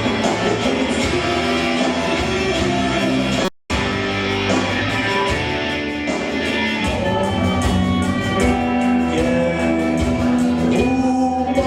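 Rock band music led by guitars, in an instrumental passage without clear singing. The sound cuts out completely for a split second about three and a half seconds in, then picks up again.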